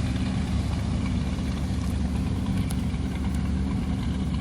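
A steady low engine drone with a constant hum and no change in pitch: background noise from motor traffic.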